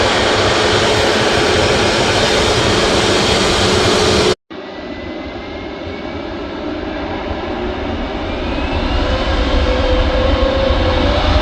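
Airbus A321 jet engines running loudly and steadily, cut off suddenly about four seconds in. Then the engines spool up to takeoff power, a whine rising in pitch over noise that keeps growing louder.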